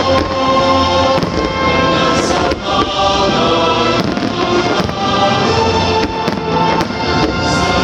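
Fireworks bursting, several sharp bangs scattered through, over loud music with held notes.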